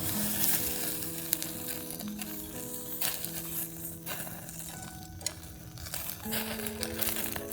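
Background music of soft held notes over food sizzling as it cooks, with a few sharp clicks.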